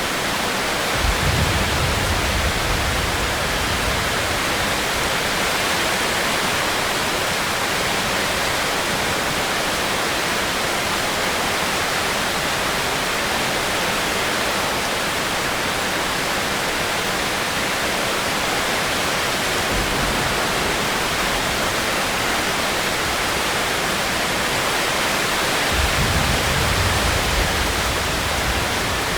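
Steady, dense rain hiss. Low rumbles come in briefly about a second in and again near the end.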